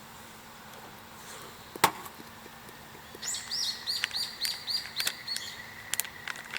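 A single sharp knock, then a bird singing a run of repeated chirping notes, about three a second, with a few sharp clicks near the end.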